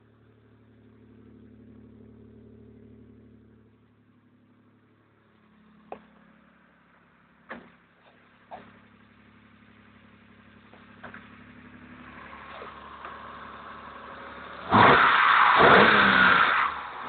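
Vauxhall Calibra's 3-litre V6 engine running on one of its first start-ups after a timing belt job. It is faint at first, with a few sharp clicks, then from about fifteen seconds in it is loud and revving, heard close at the open engine bay.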